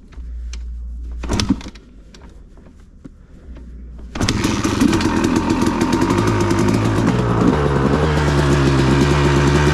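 2002 Honda CR250R's 250 cc two-stroke single-cylinder engine starting up about four seconds in, after a few knocks, then running unevenly before settling into a steady idle near the end.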